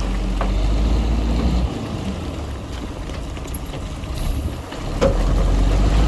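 Heavy diesel engine of an earthmoving machine running under load. It drops back about a third of the way in and comes on strong again near the end, with a few sharp knocks.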